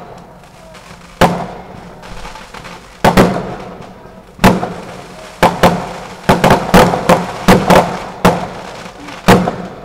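Fireworks display: a string of loud shell bursts, about fifteen bangs, sparse at first and then coming in quick clusters, each bang trailing off in echo.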